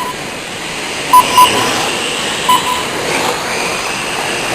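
Short electronic beeps, mostly in pairs, from the race timing system as sport trucks cross the line. Under them runs a steady hiss with a faint whine rising and falling as the trucks run.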